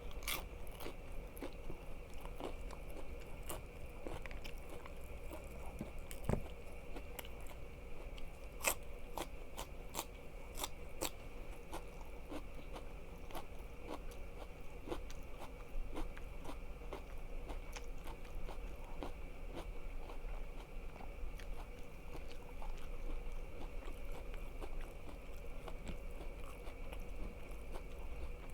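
Close-miked biting, crunching and chewing of crisp food, a steady string of sharp crackly crunches with a louder run of crisp bites about nine to eleven seconds in.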